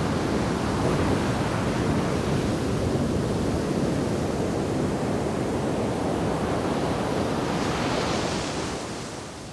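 Shore break surf: a steady rumble of breaking waves, with the hiss of the wash building near the end and then falling away.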